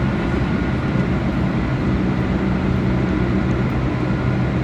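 Keihan limited express electric train running, heard from the driver's cab: a steady rumble of the running train with a low, even hum.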